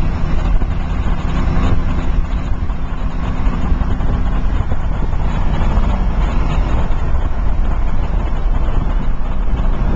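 A motor vehicle engine running steadily and loudly, its pitch shifting a little about halfway through, over a low rumble.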